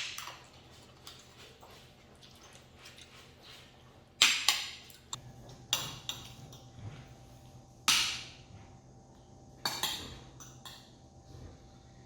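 Kitchenware clattering and clinking: four sharp knocks, each ringing briefly, a second or two apart, with smaller clicks between them over a low steady hum.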